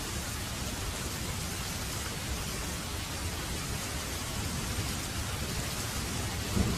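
Heavy rain falling steadily. Near the end a low rumble of thunder starts to build.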